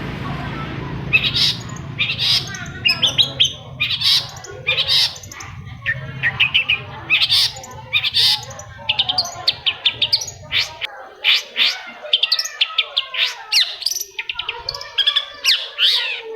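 Long-tailed shrike calling: a fast, busy run of sharp chirps and harsh notes beginning about a second in. A low background hum runs under it and stops about eleven seconds in.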